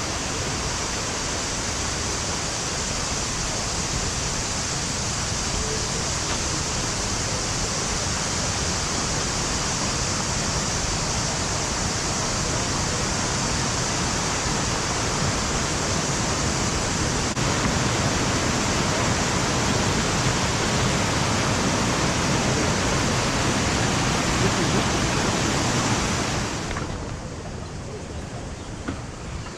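Waterfall water crashing and rushing: a loud, steady, full wash of noise. About 26 seconds in it drops abruptly to a quieter, duller rush.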